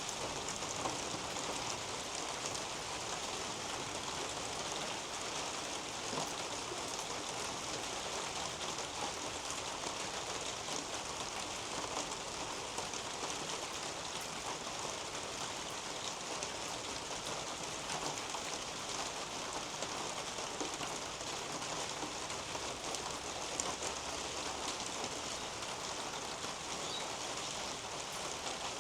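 Steady rain falling on garden foliage: an even hiss with many individual drops ticking close by.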